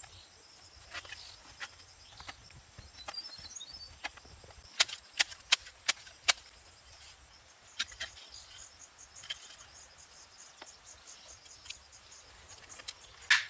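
Sharp knocks of hand tools striking: a group of five loud knocks about half a second apart near the middle, then a quick run of knocks starting near the end. Faint high, steady insect chirring runs underneath.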